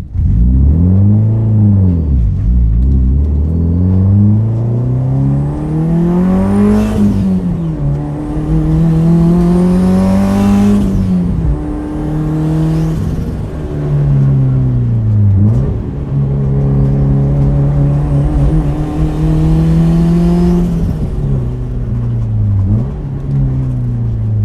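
Turbocharged Subaru WRX flat-four engine through a straight-pipe exhaust, driven hard up a winding road. The revs climb and drop several times with gear changes and corners, and a brief rushing hiss comes twice as the throttle lifts.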